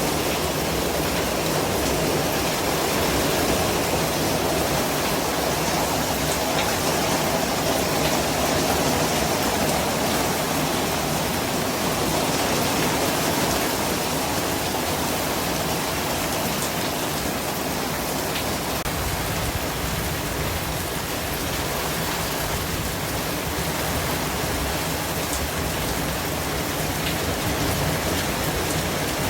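Steady, unchanging hiss of a white-noise track, spread evenly across the range with a slightly fuller middle.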